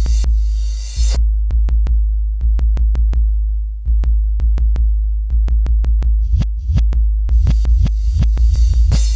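Instrumental electronic beat: drum-machine hits over a heavy, sustained deep bass. A bright hissing layer drops out about a second in, leaving only the sharp ticks and bass, then two short swishes lead it back in at about seven seconds.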